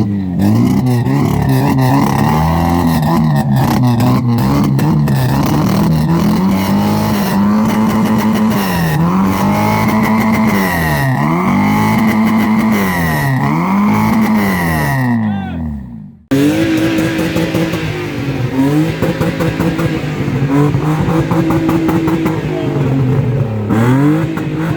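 Car engine revved repeatedly, its pitch climbing and falling about every second and a half. The sound breaks off suddenly about sixteen seconds in, then engine noise with rising and falling revs starts again.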